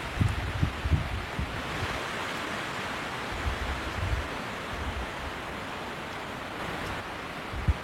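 Snowstorm wind blowing steadily, with gusts buffeting the microphone in low rumbles during the first second and a half, again around the middle, and near the end.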